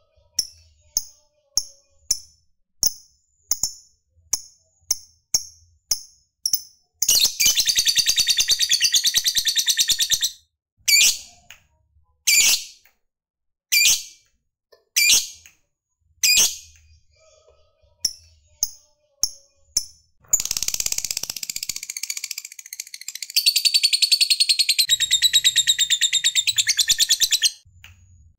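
Lovebird calling: sharp, high single chirps about once or twice a second, broken by two long, rapid chattering trills (ngekek), the first lasting about three seconds and the second about seven seconds, near the end.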